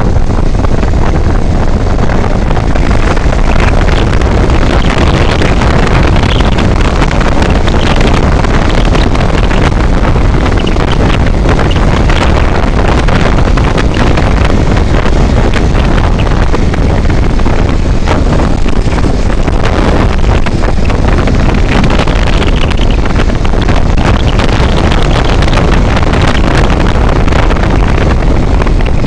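Loud, steady wind buffeting on the microphone of a moving vehicle, with engine and road noise underneath.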